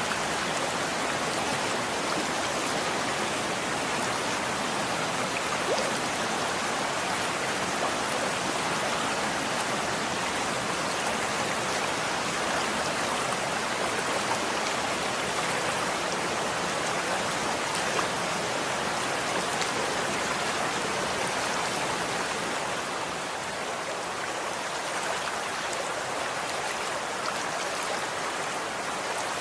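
Running water flowing steadily, with a faint spatter of small drips and splashes through it.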